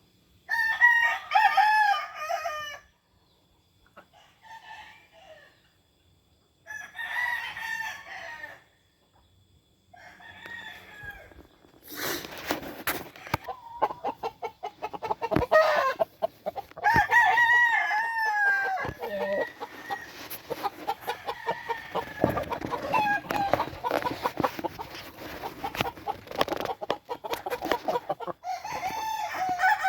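Game roosters crowing, four separate crows of about two seconds each, then a busier stretch of overlapping crowing and clucking mixed with rapid clicking and rustling.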